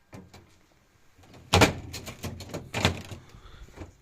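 Alaska refrigerator door being handled: two loud knocks, about a second and a half in and again near three seconds, with smaller clicks and rattles between and after them.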